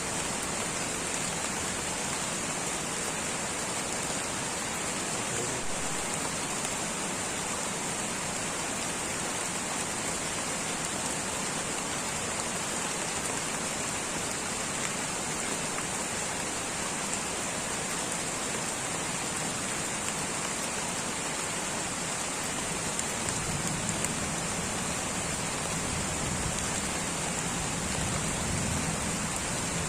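Light rain falling steadily in a tropical rainforest, an even hiss of drops, with a faint low rumble swelling in near the end.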